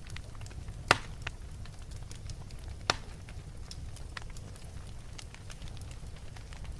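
Wood fire burning in a fireplace, a steady low rumble of flames with scattered crackles and two sharp pops, about a second in and near the three-second mark.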